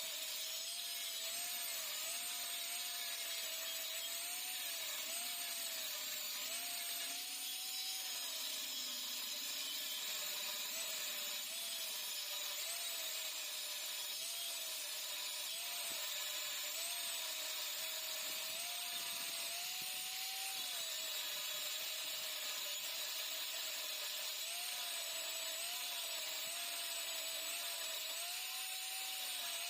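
Handheld power tool with a small high-speed motor running steadily, its whine wavering slightly up and down in pitch.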